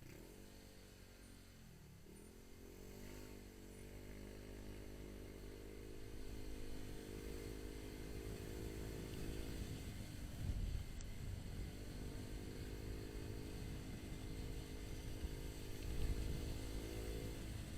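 Motorcycle engine pulling away and accelerating, its pitch climbing and then dropping back at gear changes about two seconds and about ten seconds in. A low rumble runs underneath.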